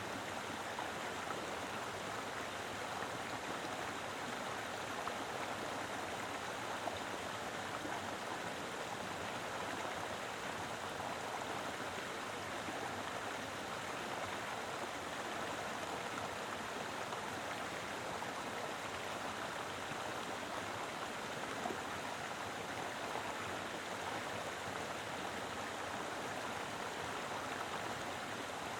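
Mountain river flowing over rocks: a steady, even rush of running water with fine gurgling.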